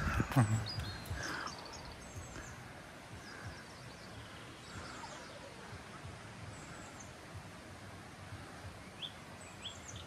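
Quiet outdoor ambience with wild birds giving short, scattered high chirps and calls throughout. A brief snatch of a voice is louder near the start.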